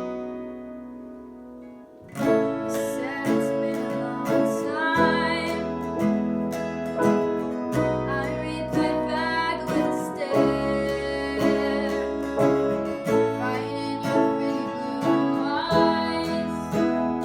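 A band playing a song, led by guitar. A ringing chord fades away, then about two seconds in the full band comes in on a steady beat, with singing over it.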